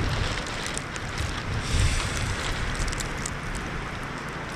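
Wind gusting over the microphone in a winter storm: a rough low rumble with noise above it, stronger in gusts about half a second and two seconds in, with scattered faint ticks.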